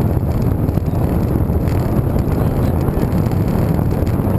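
Steady wind buffeting the microphone of a moving road bike, a dense, even low-pitched noise that doesn't let up.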